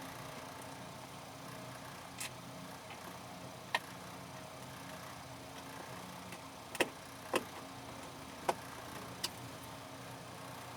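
About six short, sharp clicks at uneven intervals over a faint steady hum.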